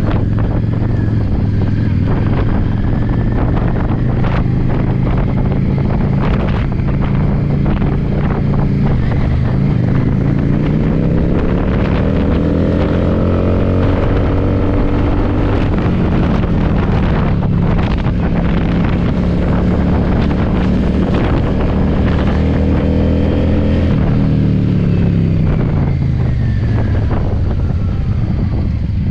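Yamaha V-Star motorcycle's V-twin engine running on the road, revving up about ten seconds in, dropping in pitch at a shift, holding steady, then easing off near the end. Gusty wind buffets the microphone throughout.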